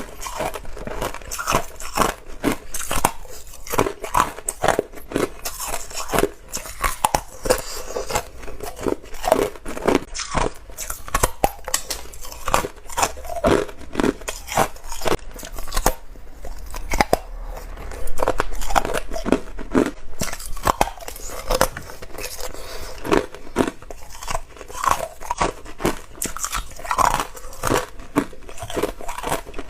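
Close-up bites of ice, crunching and chewing in a dense string of sharp crunches, several a second.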